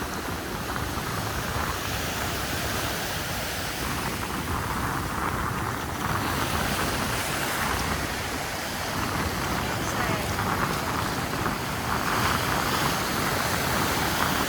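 Wind buffeting the microphone over the steady wash of ocean surf on a beach, a continuous rushing noise with low rumble that swells a little about six seconds in and again near the end.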